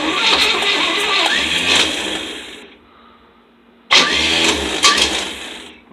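A 1966 Chevy van's engine, unused for over 20 years, being started. It turns over and runs roughly, dies away about three seconds in, then starts up again abruptly about four seconds in and fades toward the end, stalling.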